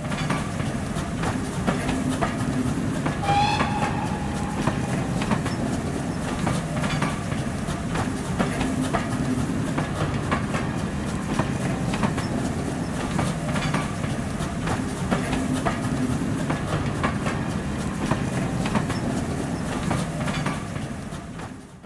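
A rail vehicle running with a steady engine hum, its wheels clicking regularly over rail joints, and one short high toot about three seconds in; it fades out at the end.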